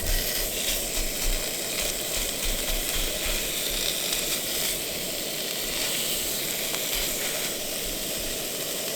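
Food sizzling steadily in a hot frying pan, with a light crackle.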